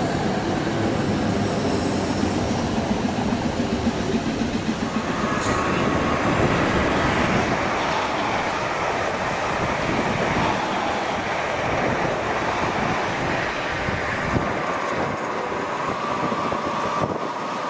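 Electric train running on the track, a loud, steady rumble of wheels and running gear; a steady high tone joins about five seconds in.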